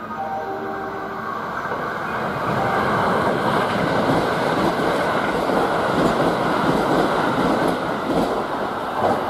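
Kintetsu 21000-series Urban Liner Plus limited express passing through the station at speed without stopping. Its wheel-and-rail noise builds over the first couple of seconds, then holds as a loud rush while the cars go by.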